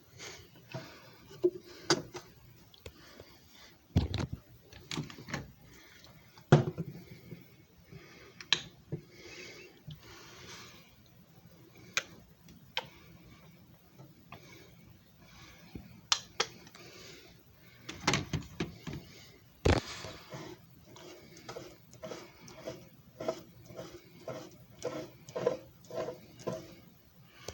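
Irregular clicks, knocks and a few louder thumps of a JFJ Easy Pro disc repair machine and its parts being handled. Near the end comes a run of evenly spaced soft knocks, about two a second.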